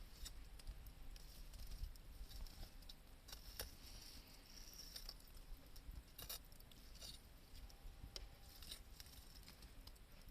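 Wood fire crackling faintly with irregular small pops, a few sharper ones scattered through.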